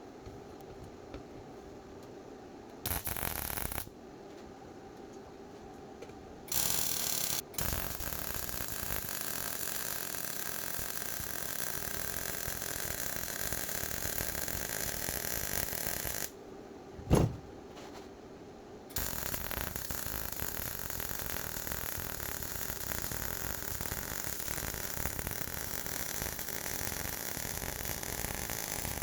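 Steady hissing noise in stretches: two short bursts, then a long run of about eight seconds, a single sharp knock, then another run of about ten seconds.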